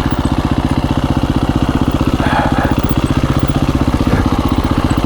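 2017 KTM 350 EXC-F's single-cylinder four-stroke engine running at low, steady revs with an even pulse, the dirt bike crawling over rocky trail.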